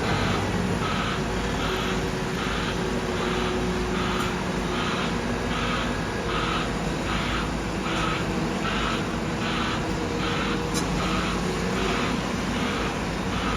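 A pulsing alarm repeating evenly at about two pulses a second, like a vehicle's reversing alarm, over a steady low engine drone.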